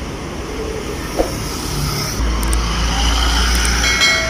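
A motor vehicle running close by, with a low rumble that sets in about two seconds in, a single click a second in, and a brief pitched tone near the end.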